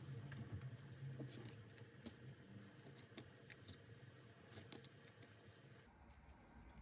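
Tarot cards being handled on a table: faint, scattered light clicks and taps over a low hum, which drops away near the end.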